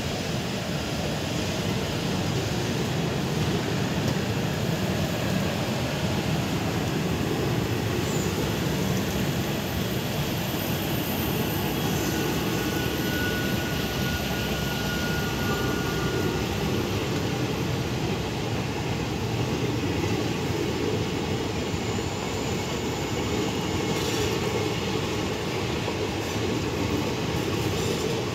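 Passenger coaches of an express train rolling steadily past along the platform, a continuous rumble of wheels on the rails. A thin high squeal is heard briefly about halfway through.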